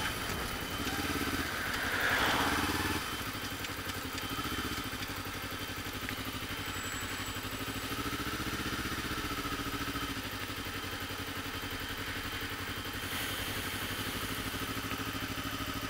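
Kawasaki Ninja 250's parallel-twin engine running steadily at low revs through an aftermarket Pipewerx exhaust with the baffle fitted. A brief louder swell comes about two seconds in.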